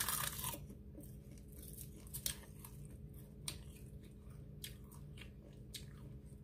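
Crunchy home-roasted seaweed sheet being bitten and chewed: a loud crisp crunch at the first bite, then sharp crackles about once a second as the chewing goes on.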